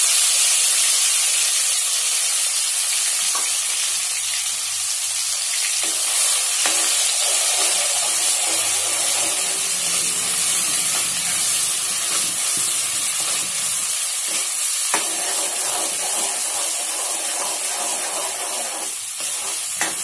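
Onion-tomato gravy paste sizzling loudly in hot oil in a metal kadai while a spatula stirs it. The sizzle is strongest at the start, right after the paste goes into the oil, and eases slightly. A couple of sharp clicks of the spatula against the pan are heard.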